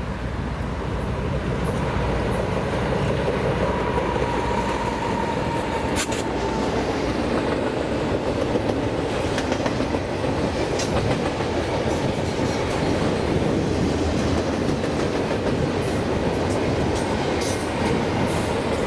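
CN freight train cars rolling past with a steady, loud rumble of wheels on rail, broken by scattered sharp clicks.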